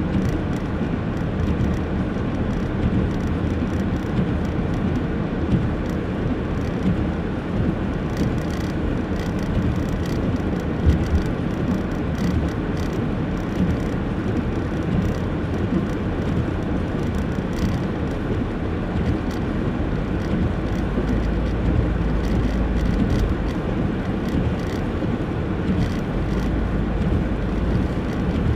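Car driving slowly on a snowy road: a steady low rumble of engine and tyre noise.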